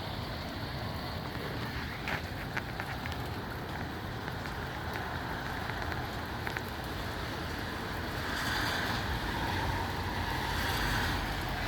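Strong gusty wind and rain, the wind buffeting the microphone with a steady low rumble under a hiss of rain, with a few sharp ticks a couple of seconds in. The noise swells near the end.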